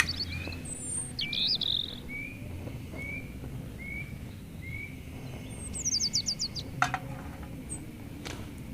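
Forest birds calling. One bird repeats a short rising whistled note about every 0.7 s, six times, while others give quick high trills and a fast run of high notes. Two sharp clicks come near the end.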